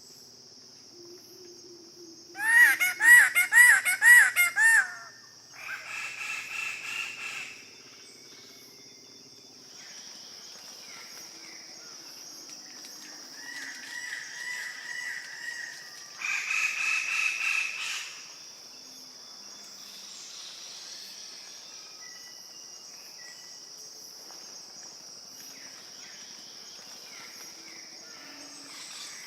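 Chicken-like fowl calling: a loud run of about ten quick rising-and-falling notes a few seconds in, then shorter call groups later on. A steady high hiss runs underneath.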